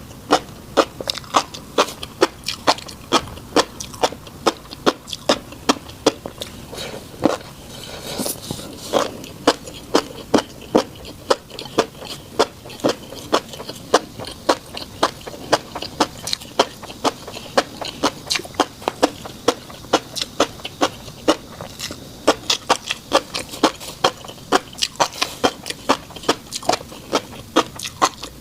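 Close-miked mouth sounds of eating fish roe: a steady run of sharp, wet clicks and pops, about three a second, as the eggs burst while being chewed.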